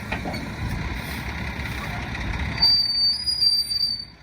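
Mack Granite roll-off truck running as it creeps ahead. About two and a half seconds in the low rumble drops and a high, steady squeal sets in, with a few loud surges just after.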